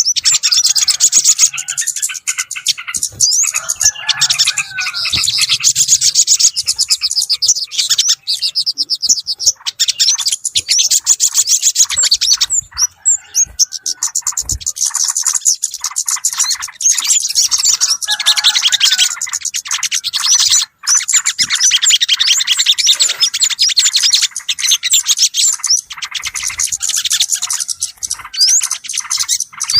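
Small songbirds chirping and chattering rapidly over one another in a dense, continuous chorus: a bird-lure (pikat) recording used to draw yellow-vented bulbuls and other small birds.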